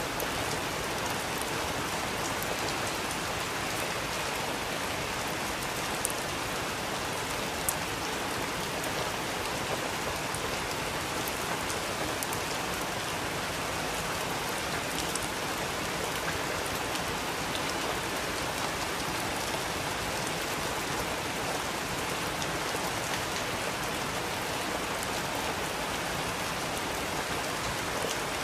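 Steady rain falling, an even hiss with scattered drop ticks, two slightly louder drips about six and seven and a half seconds in.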